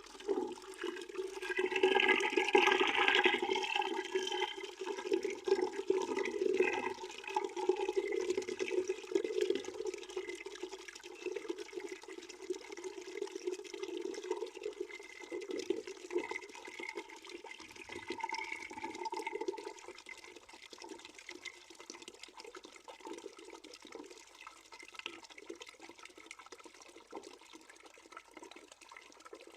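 Water running and splashing into a bucket. The sound is loudest a few seconds in and grows quieter over the second half.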